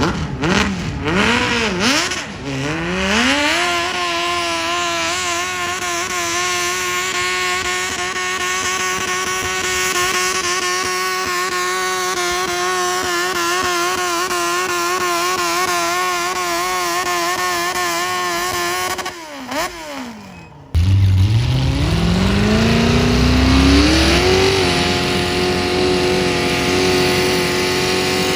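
Pulling-tractor engine at full throttle: it revs up and holds a high, steady pitch with a slight warble for about fifteen seconds, then drops off. After a sudden change, an engine climbs steeply in pitch and holds high to the end.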